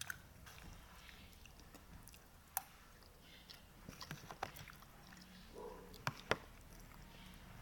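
Close-up chewing and biting of pansit batil patong noodles, quiet and wet, with scattered small clicks. There are a few sharper clicks, the loudest twice in quick succession about six seconds in.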